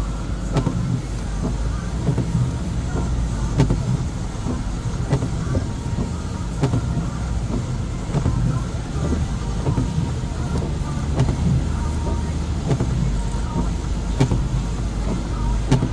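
BMW 520d on the move, heard from inside: a steady low rumble from its four-cylinder diesel and the road, with scattered small knocks.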